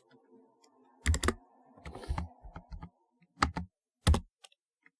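Typing on a typewriter-style keyboard: irregular sharp key clicks, with louder groups of strokes a little after a second in and twice near the end.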